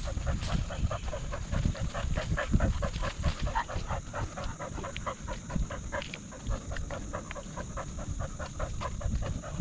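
A dog panting fast and steadily, about five or six breaths a second, over a low rumble.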